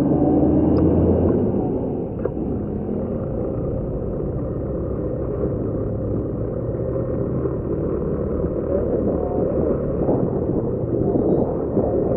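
Motorcycle engine running with wind rush while riding, a steady low rumble that is slightly louder in the first second or so.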